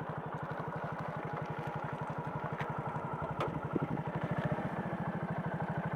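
Motorcycle engine running steadily at low revs, with an even put-put of about a dozen firing pulses a second.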